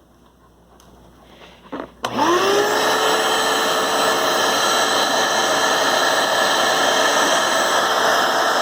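Vacuum cleaner switched on about two seconds in, its motor spinning up with a rising whine and then running steadily. A short knock comes just before it starts.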